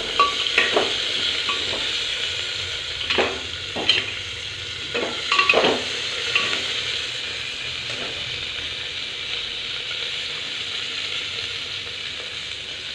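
Cauliflower, soya chunks and green chilli sizzling in hot oil in an aluminium pressure cooker, stirred with a perforated steel ladle that scrapes and knocks against the pot several times in the first six seconds or so; after that only the steady sizzle.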